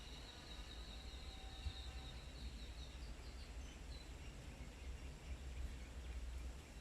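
Small birds chirping faintly, with a run of quick, repeated high chirps in the first three seconds and a few scattered notes after, over a steady low rumble.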